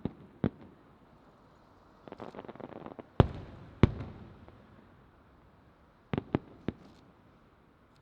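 Fireworks shells bursting in the air: sharp bangs near the start, a patch of crackling about two seconds in, two loud bangs a little over three seconds in, and a quick run of three bangs near the end.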